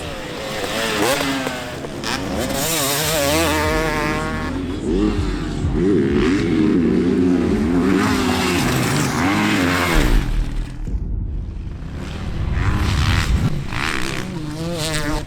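Several motocross bikes racing, their engines revving up and down with the throttle so the pitch keeps rising and falling and the engine notes overlap.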